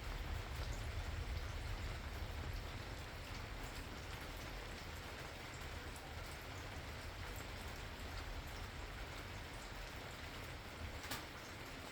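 Steady rain falling, with many small drops ticking on surfaces and a low rumble underneath that is stronger in the first couple of seconds. One sharper drop stands out near the end.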